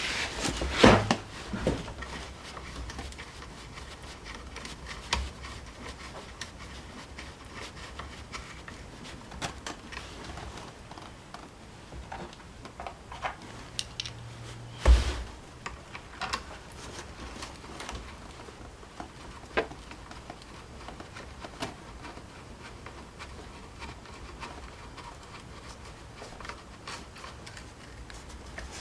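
Scattered clicks, taps and knocks of parts and tools being handled while a Honda UMK-422 string trimmer is reassembled, with two louder thumps, about a second in and near the middle.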